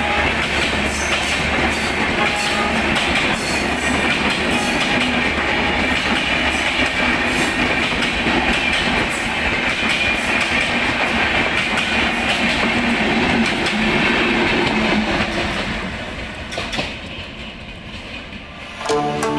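Passenger train rolling past, wheels clacking over the rail joints with a steady rumble and a faint high squeal. It fades away in the last few seconds.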